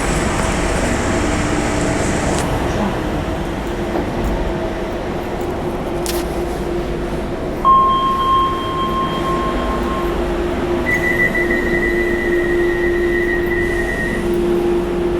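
Train running, a steady rumble with a low hum. A long steady beep starts suddenly about eight seconds in, and a higher one follows about three seconds later.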